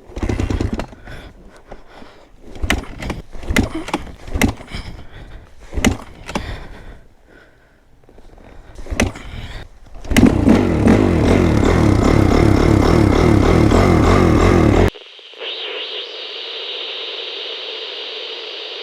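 Irregular knocks and clicks, then about ten seconds in an engine running loudly and steadily for about five seconds. It cuts off abruptly and gives way to a thinner steady sound with a high tone.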